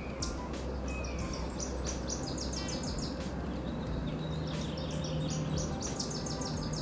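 A songbird singing: two rapid trills of short, high, evenly repeated notes, the first starting about a second and a half in and the second about five seconds in, over a steady low outdoor hum.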